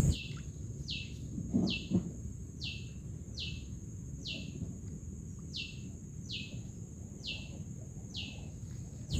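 A bird calling a short downward-sliding whistle over and over, about eleven times at an even pace of a little more than one a second, over a faint steady high tone. There is a brief low sound about one and a half seconds in.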